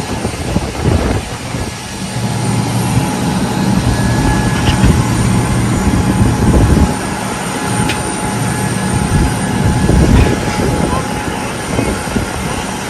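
Jet aircraft engines running: a loud rumble that swells and fades, over a faint steady whine.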